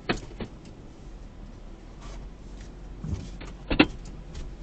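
Short clunks and knocks inside a pickup truck's cab over a low steady hum, the loudest a single sharp knock near the end.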